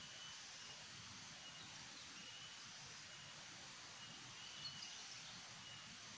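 Quiet tropical forest ambience: a steady high hiss with short, repeated high chirps at one pitch, about one every half second to a second.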